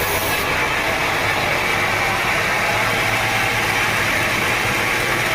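Sawmill saw machine running steadily. About half a second in, the high hiss of the blade cutting wood drops away, leaving the machine's steady running hum.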